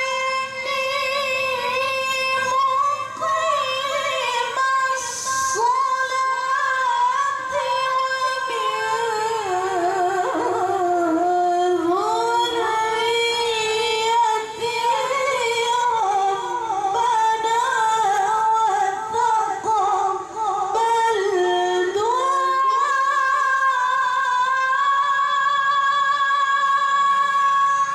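A woman chanting Quran recitation in the melodic Arabic style, in a high voice with rapid ornamented runs. The voice dips lower in the middle, then climbs to a long, steady high note held for the last several seconds.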